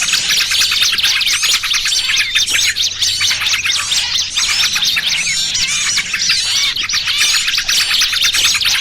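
Bird-trapping lure recording: a dense, unbroken chatter of many small birds' rapid high chirps and short whistled glides. It mixes the busy calls of yellow-vented bulbuls with the alarm calls of small birds caught in a trap.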